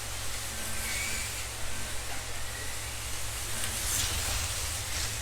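1/32 scale slot cars racing around the track, their small electric motors making a steady whirring hiss with brief higher whines as cars pass, over a steady low hum.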